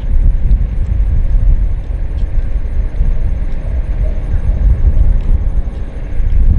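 Deep, steady rumble of a jet airliner's engines, with faint ticks high above it.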